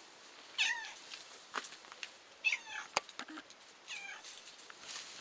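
Domestic cat meowing three times, each meow a short call that bends in pitch, with a few light clicks between.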